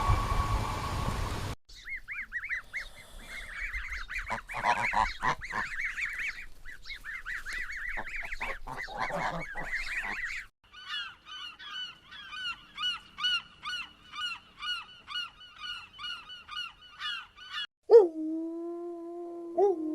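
Bird calls: first a stretch of busy, overlapping chattering calls, then from about ten seconds in a fast run of repeated honking calls. Near the end a long, low animal howl begins.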